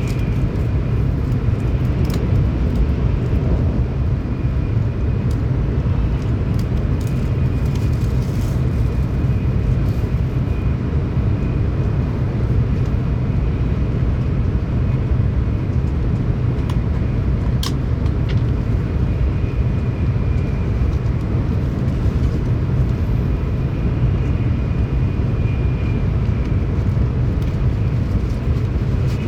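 Cabin noise of a Tokaido Shinkansen train running at speed: a steady low rumble with a faint high whine over it. A single sharp click comes a little past halfway.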